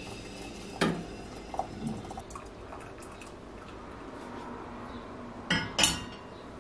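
Dishes and cutlery clinking as they are handled: one sharp clink about a second in, a few lighter taps just after, then two clinks close together near the end.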